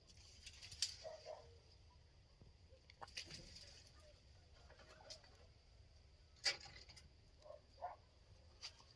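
Faint short bird calls, twice, among a few sharp clicks and taps.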